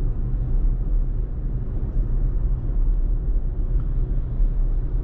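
Steady low road and tyre rumble inside a moving Tesla's cabin.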